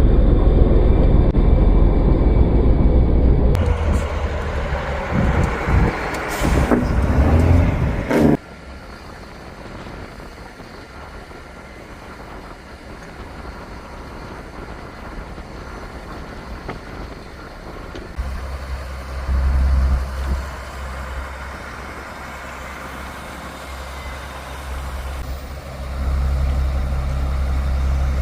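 Heavy truck engines running: a loud low rumble for the first eight seconds that cuts off abruptly, then quieter sound until a low engine rumble starts again at about eighteen seconds.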